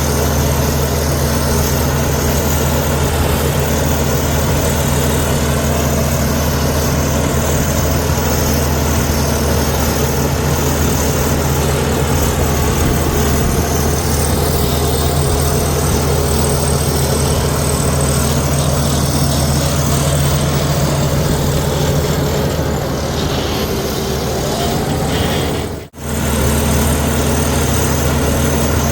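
Komatsu D61EX bulldozer's diesel engine running steadily with a deep, even hum. Near the end the sound cuts out abruptly for a moment, then resumes.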